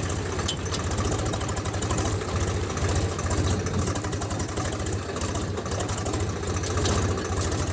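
A motor running steadily with a rapid, even pulse and a low hum.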